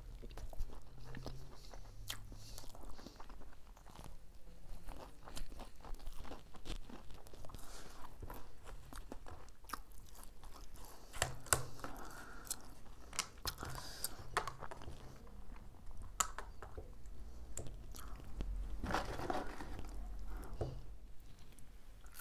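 Crispy fried chicken being bitten and chewed close to the microphone: repeated crunchy bites and wet chewing, with small sharp clicks throughout.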